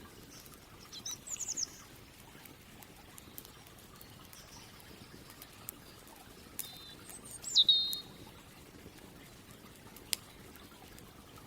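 Songbirds chirping: a short cluster of high chirps about a second in, and a louder run of chirps around seven to eight seconds, over a faint steady hiss of a campfire with a single sharp crackle near the end.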